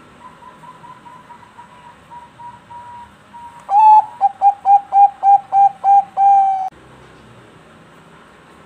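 Zebra dove (Thai-bred perkutut bangkok) singing. A soft, even run of short coos is followed after about three and a half seconds by a loud song lasting about three seconds: a long opening coo, a quick run of short coos, and a long closing coo.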